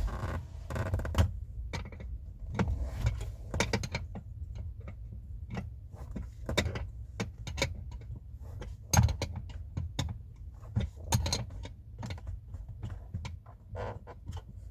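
Irregular metallic clicks and clinks of hand tools on metal fittings, a wrench being worked on the banjo bolts of a hydraulic handbrake line. The loudest clinks come about nine seconds in and again about two seconds later.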